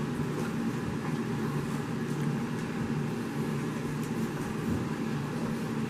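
Steady background hum and hiss, even in level and without clear breaks or knocks.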